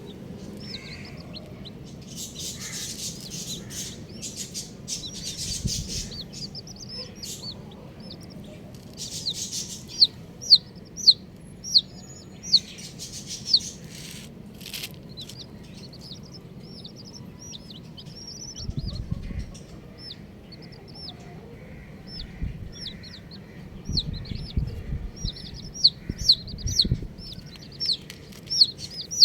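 Baby chicks peeping, many short high calls that each slide down in pitch, coming thick and fast near the end, with a few stretches of rustling and some low thuds along the way.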